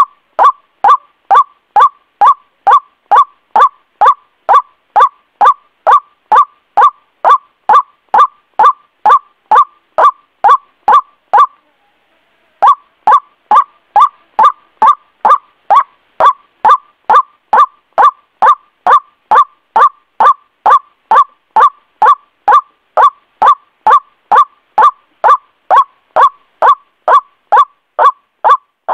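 White-breasted waterhen (ruak-ruak) calls played as a bird-lure recording: a loud, monotonous series of short notes about twice a second, each dropping in pitch, with one break of about a second near the middle.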